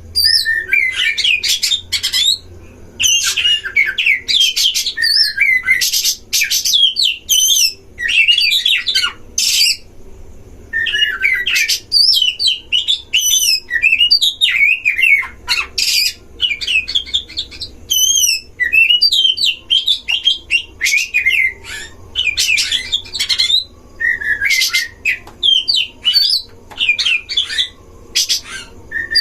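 Oriental magpie-robins (kacer) singing against each other in fast, varied phrases of whistled notes, quick sweeps and harsh chattering notes, with only brief pauses between phrases.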